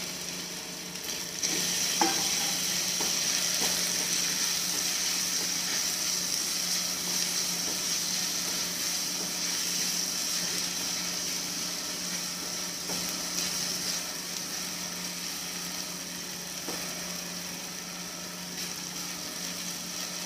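Chopped tomatoes and onions sizzling in hot oil in a non-stick kadhai while being stirred with a silicone spatula. The sizzle jumps louder about two seconds in, just after the tomatoes go in, and eases off slowly near the end.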